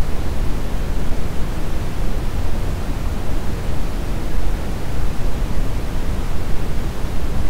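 Steady brown noise: an even, deep rushing hiss with most of its energy in the bass and little in the treble, unchanging throughout.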